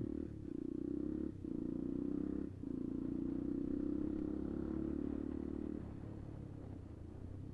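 Kuba Black Cat motorcycle engine running under throttle, with two brief dips about a second and a half and two and a half seconds in, then easing off to a lower, quieter note near the end.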